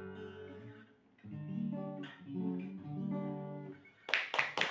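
Acoustic guitar playing the closing chords of a bard song, with a short pause about a second in. Applause breaks out near the end.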